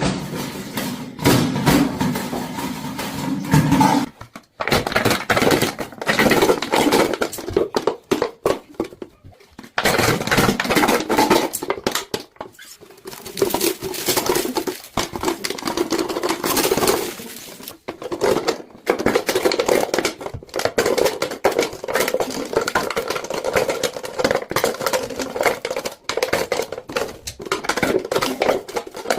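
Clattering, knocking and scraping of objects being handled and worked on, with many sharp clicks, cut off abruptly several times.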